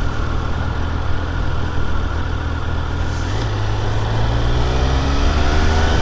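Triumph Speed Triple 1200 RR's inline three-cylinder engine running steadily, with its note rising from about four seconds in as the bike picks up speed. Wind noise rushes over it.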